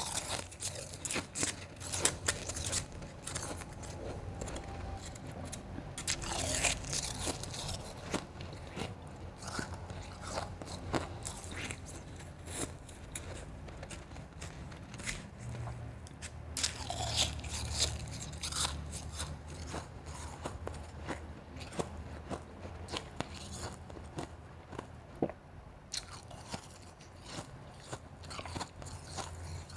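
A person biting and chewing soft, crunchy blended and shaved ice, close to the microphone: a steady run of crunches with louder bursts of bites now and then.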